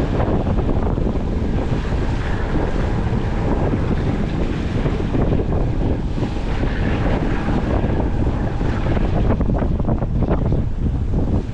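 Wind buffeting the microphone aboard a sailboat underway, a steady loud rumble, with water washing along the hull beneath it.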